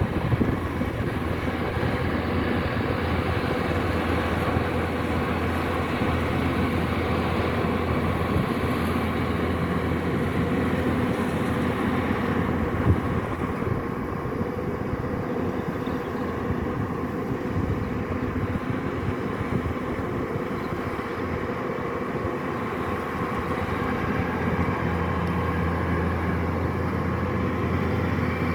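Kubota DC-105X combine harvester running steadily at work, a continuous engine and machinery drone that eases slightly in the middle and comes back up.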